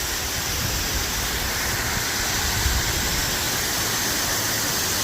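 Steady rushing noise of water, with an uneven low rumble underneath.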